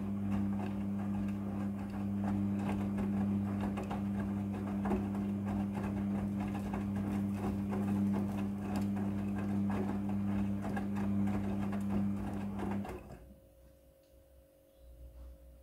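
A small electric machine running with a steady hum and a fine, rapid clatter, stopping abruptly about thirteen seconds in.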